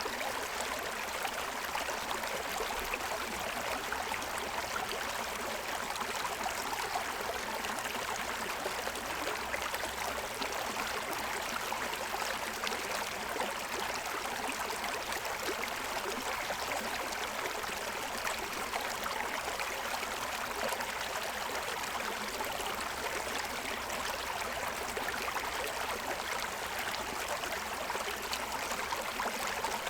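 Forest stream running over the stones of its bed: a steady rush of water with fine trickling and gurgling, unchanging throughout.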